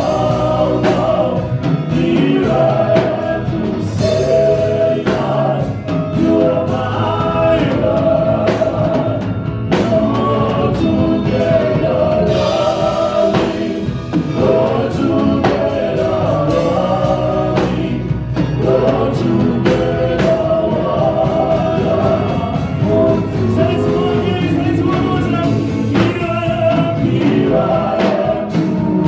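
Gospel choir singing with a live band, a steady beat running throughout.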